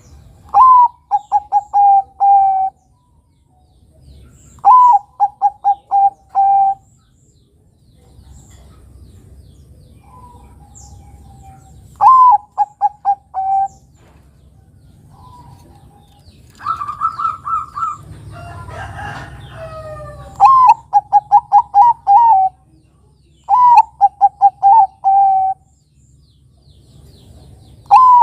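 Zebra dove (Bangkok-type perkutut) cooing in repeated phrases, each a rising opening note, a quick run of short notes and a longer final note, about six times. A different, rougher sound fills a few seconds near the middle.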